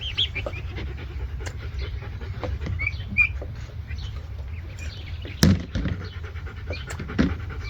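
Three-week-old turkey poults peeping now and then over a steady low rumble, with rustling and handling noise. There are two sharp knocks, the loudest about five and a half seconds in.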